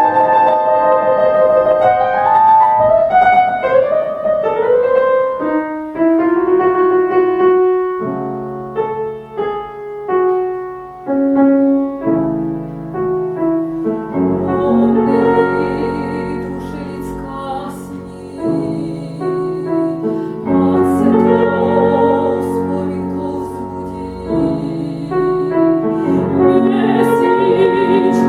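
A female classical singer with grand piano accompaniment. The voice sings with vibrato, drops out for a short piano passage in the middle, and then comes back in.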